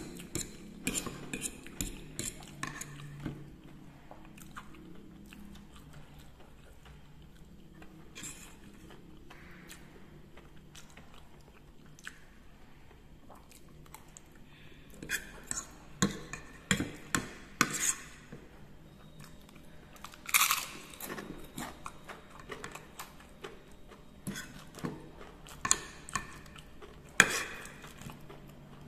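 Close-up eating sounds: chewing mouthfuls of fried instant noodles and crunchy seroja crackers, with a fork and spoon clinking and scraping on a ceramic plate. The sharp clinks come in clusters about halfway through and again near the end.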